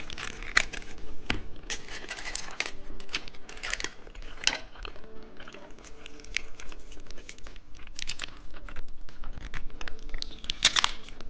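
Plastic candy packaging being torn open and crinkled by hand: irregular rustling with sharp crackles throughout.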